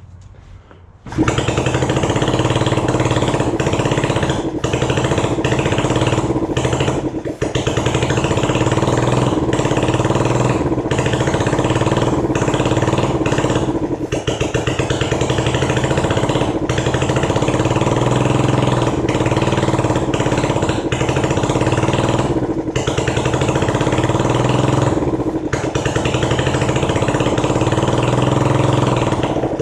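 Honda CB250 motorcycle engine catching about a second in and then running loudly, with brief dips every few seconds. It is kept going on starting fluid sprayed into its intakes in place of its non-working carburettors.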